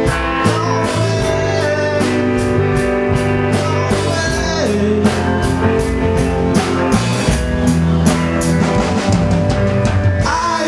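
Live rock band playing an instrumental passage, with a drum kit keeping a steady beat under guitar.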